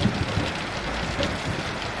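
Heavy rain falling steadily, with scattered drop ticks, and a low rumble of distant thunder dying away in the first half second.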